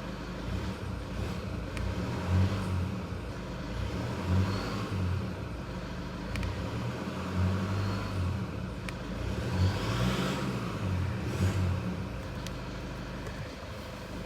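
2014 Toyota Prado's 3.0-litre turbo-diesel engine on its stock exhaust, idling and blipped up in about five short revs before settling back to idle near the end.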